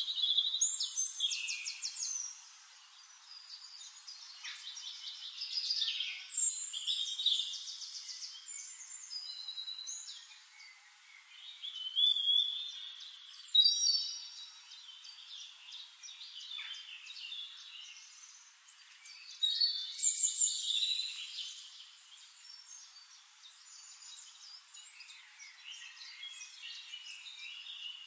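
Birds chirping and singing, with quick trills and high whistled phrases that come and go in bursts.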